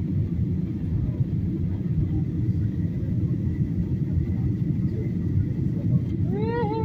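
Steady low rumble of an airliner cabin during the descent to landing, with a faint steady whine above it. Near the end a person's voice rises and falls briefly.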